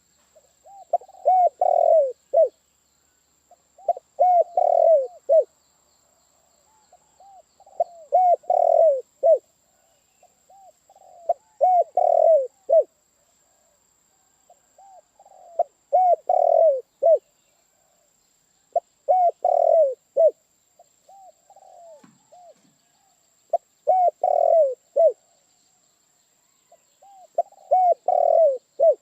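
Spotted dove (tekukur) cooing: a short phrase of several throaty coos, repeated about every four seconds, eight times in all.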